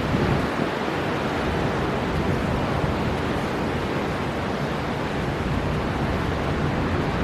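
Storm wind and heavy sea surf blowing in a steady, dense noise, with gusts buffeting the microphone at the low end.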